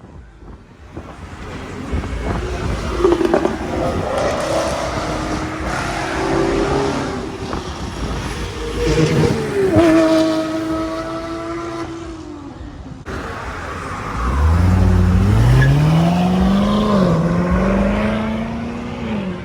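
Performance car engines revving and accelerating past, their pitch gliding up and down. Late on, one engine climbs steadily through the revs, dips once and climbs again.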